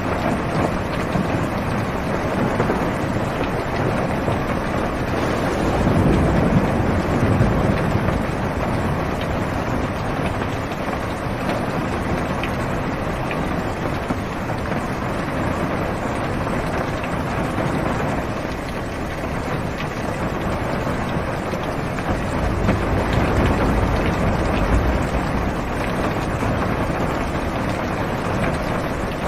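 Heavy rain pattering steadily on a car's roof and windows, heard from inside the cabin. Low rolls of thunder swell up twice, about five seconds in and again around twenty-three seconds.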